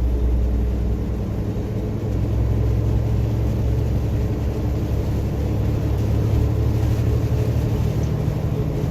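Steady engine drone and road noise heard from inside a moving vehicle's cab, driving on a rain-soaked road.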